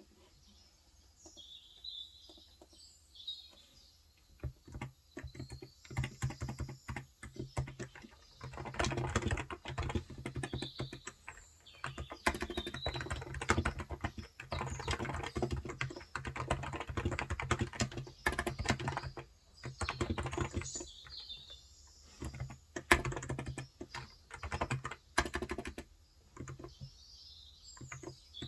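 Typing on a Cox Endeavor 35g electrostatic capacitive tenkeyless keyboard, in quick runs of keystrokes with short pauses, starting a few seconds in and easing off near the end. Birds chirp in the background, mostly in the opening seconds and near the end.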